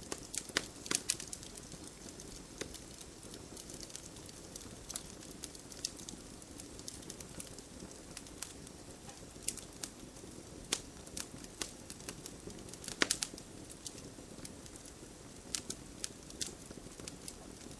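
Campfire burning: a steady low hiss of flames with irregular crackles and pops, the sharpest about a second in and again about thirteen seconds in.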